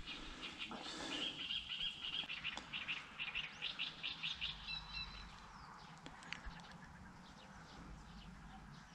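A small bird singing: a fast series of short, high chirps from about a second in until about five seconds, ending with a few higher notes. A faint outdoor background fills the rest.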